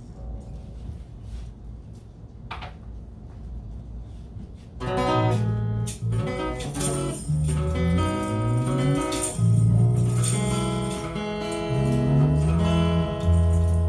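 Strummed acoustic guitar with a bass line, starting up about five seconds in after a quiet stretch with a few faint knocks; the low notes climb and fall beneath steady chords.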